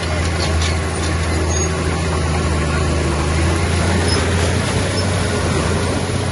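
Heavy diesel earthmoving machinery running steadily: a constant low engine note under a broad mechanical rumble.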